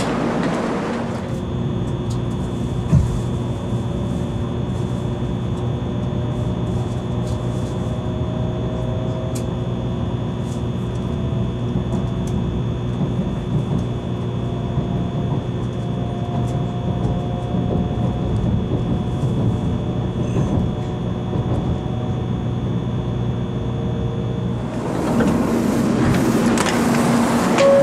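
Electric train running: a steady hum with a few fixed tones and a faint whine that slowly rises in pitch. Near the end it turns to a louder rushing noise.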